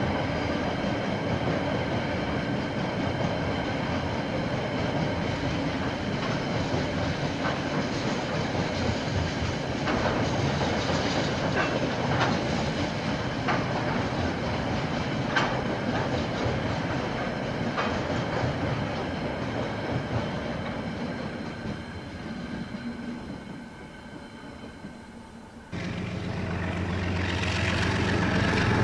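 A KiwiRail train's wagons rolling past, a steady rumble with sharp wheel clicks over the rail joints, fading away in the last few seconds. Then a sudden cut to another train approaching with a low engine hum, growing louder.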